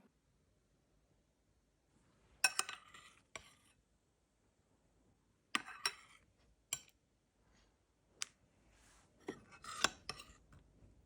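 Cutlery and dishes clinking: short clusters of sharp clicks about two and a half, six and ten seconds in, with a single click in between.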